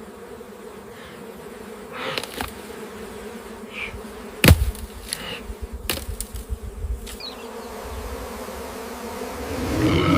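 Swarm of angry bees buzzing with a steady hum, broken by a few sharp knocks, the loudest about halfway through; the sound swells louder near the end.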